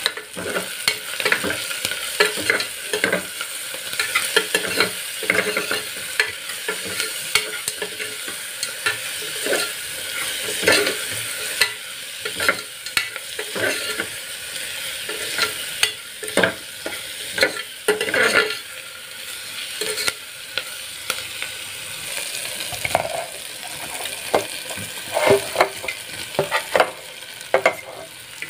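Onions and spices sizzling in hot oil in an aluminium pressure cooker, with a steel spoon stirring and scraping against the pot, its knocks and scrapes coming irregularly over a steady hiss.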